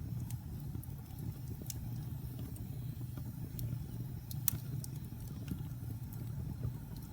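Log fire burning in a fireplace: a steady low rumble of flames with scattered sharp crackles and pops from the burning wood, one louder pop about two-thirds of the way through.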